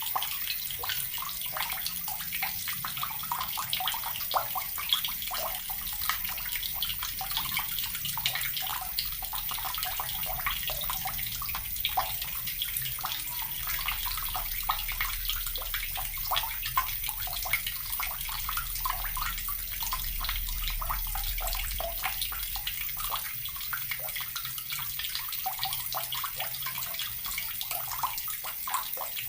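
Water running steadily from a tap and splashing into water below, with a constant rush and many small splashes and drips.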